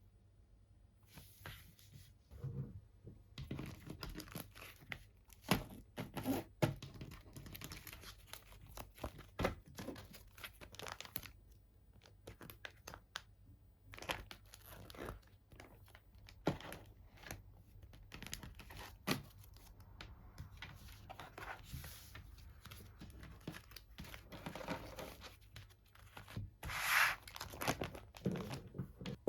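Faint handling of packaging and merchandise: irregular rustling and crinkling with small clicks and taps, and a louder crinkle near the end.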